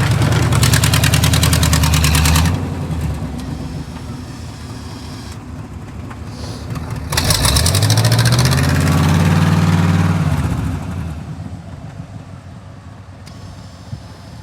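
A vehicle engine revving hard twice: held high for about the first two and a half seconds, then after a quieter lull climbing again about seven seconds in and holding for some three seconds before dying back.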